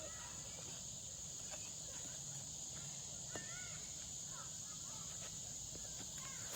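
Steady high-pitched insect drone with a few faint bird calls. A faint tick comes about three and a half seconds in.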